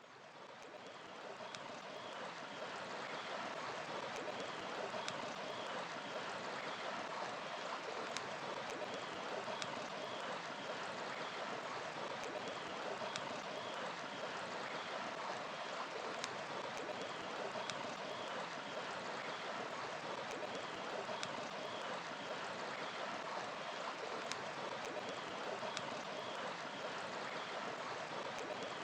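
Steady rushing of a river with sharp pops and crackles of burning firewood now and then, and faint birds chirping. It fades in over the first few seconds.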